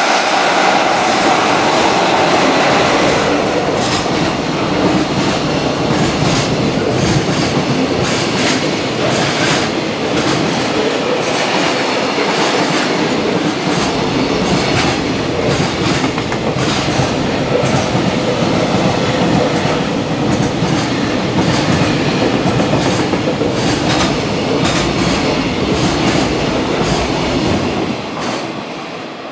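Long container freight train hauled by an EF66 electric locomotive passing through, its wagon wheels clattering steadily over the rail joints. The noise fades in the last moments as the end of the train goes by.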